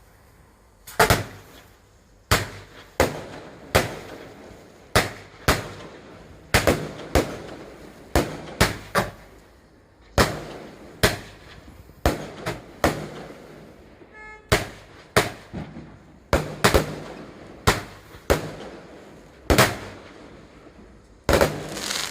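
Fireworks exploding: a string of sharp bangs starting about a second in, roughly one every half second to a second, each with a trailing echo.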